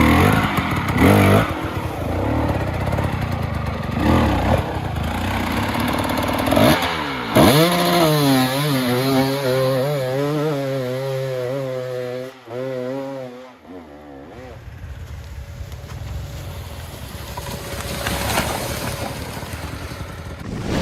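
Dirt bike engine running and revving, its pitch shooting up about seven seconds in and then held, wavering, for several seconds before dropping off to a quieter running sound.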